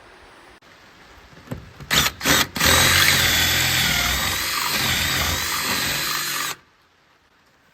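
A handheld power tool cutting into the boat hull to shape the hole for the bow-thruster pipe. It gives two short blips, then runs steadily with a high motor whine for about four seconds and stops abruptly.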